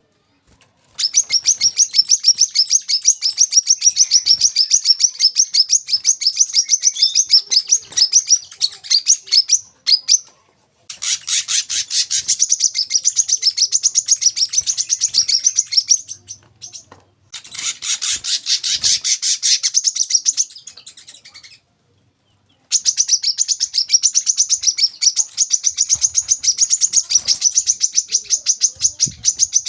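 Brown-throated sunbird (kolibri kelapa) singing in four long, fast runs of rapid high-pitched chirping notes, separated by short pauses.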